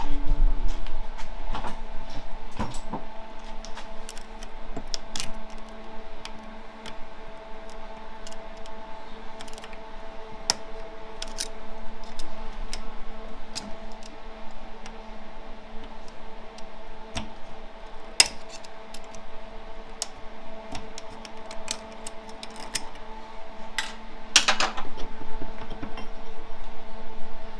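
Light metallic clicks and clinks of 4L65E transmission planetary gear parts being handled on the bench, with a louder clatter near the end, over a steady background hum.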